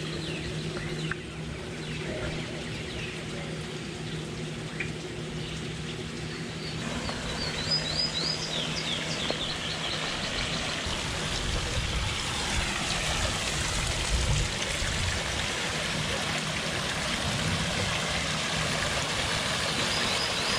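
Running water with birds chirping in short repeated phrases over it; the water sound grows fuller after the first third, while a low steady hum fades out about halfway through.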